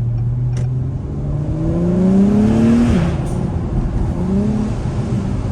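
2021 Acura TLX Type S's turbocharged 3.0-litre V6 accelerating hard with the turbo whining. The pitch rises for about two seconds, drops sharply on an upshift about three seconds in, then climbs again, heard through the open windows.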